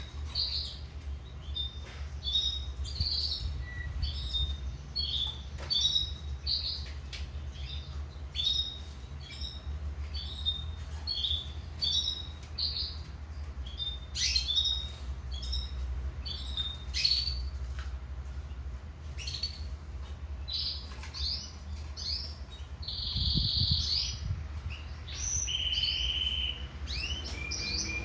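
Domestic canary singing: a long run of quick chirped phrases and rolling trills, with two held whistled notes near the end. A steady low hum runs underneath.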